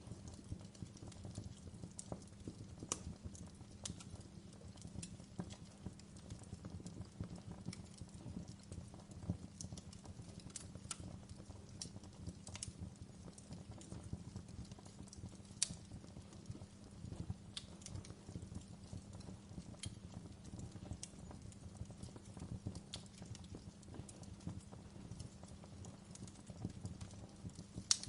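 Wood log fire crackling in a fireplace: irregular sharp pops and snaps, less than one a second, over a low steady rumble, with a louder pop about halfway through.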